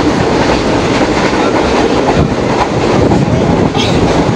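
Green Line passenger train running, heard from inside the carriage: loud, steady running noise from the wheels and the car.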